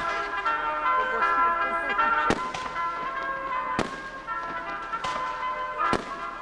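Fireworks bursting in four sharp bangs a second or two apart, over music with held notes.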